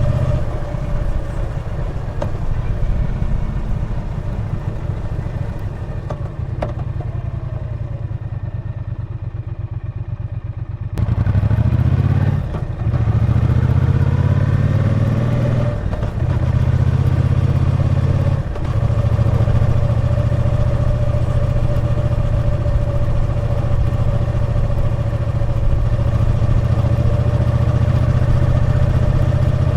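Triumph Bonneville T120 parallel-twin engine and exhaust heard while riding. It runs softer on a light throttle, then is opened up sharply about a third of the way in and pulls hard, with three brief dips as it shifts up through the gears, before settling into a steady cruise.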